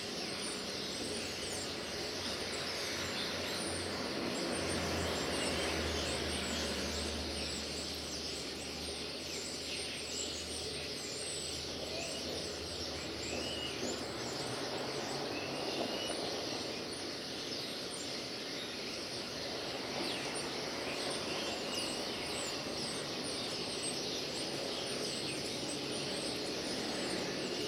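Birds chirping and twittering in many short, high calls over a steady outdoor background hum, with a low rumble from about four to twelve seconds in.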